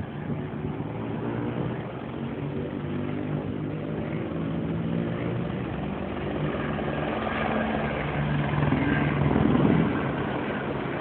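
Helicopter flying overhead: a steady rotor and engine drone that swells to its loudest about nine to ten seconds in, then eases off slightly.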